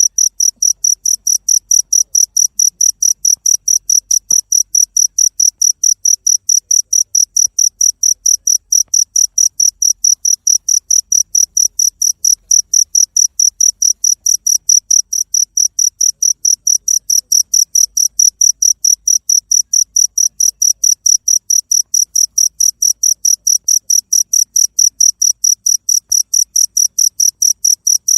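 Cricket chirping steadily, a high-pitched chirp repeated at an even pace of about four a second.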